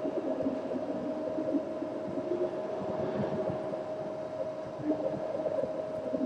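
Steady mechanical hum: a constant mid-pitched tone over a low rumble, with no bird calls.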